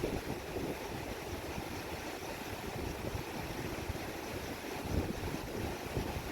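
Steady rush of a swollen monsoon river, with wind buffeting the microphone as a low, fluttering rumble.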